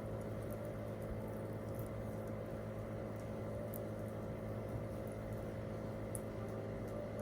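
Campfire with a few faint, sharp crackles scattered through, over a steady low hum.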